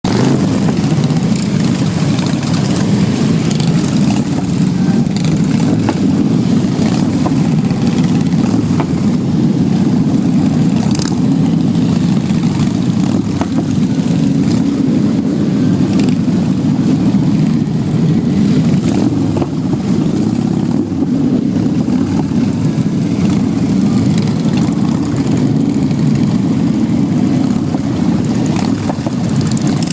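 Motorcycle engine noise, a loud steady low drone that holds even, with no revving up or down.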